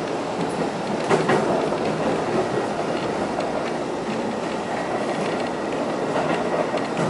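Seibu Railway electric commuter train running, heard from inside the carriage: a steady rumble of wheels on rail, with a few sharp wheel clacks, the loudest about a second in.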